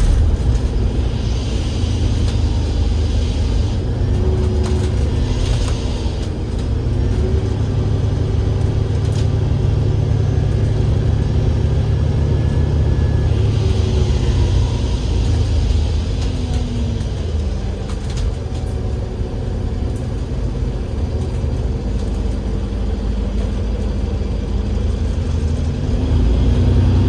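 Cummins L9E diesel engine and ZF Ecolife six-speed automatic gearbox of an Enviro500 MMC double-decker bus, heard on board while the bus drives. A steady low rumble, with a drivetrain tone that rises and falls in pitch as the bus speeds up and slows.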